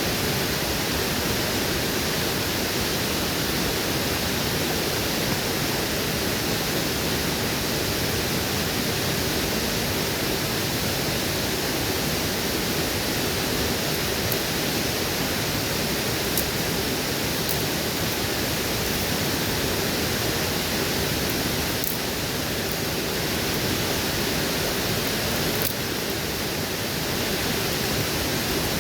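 Waterfall rushing steadily, with a few faint sharp clicks in the second half.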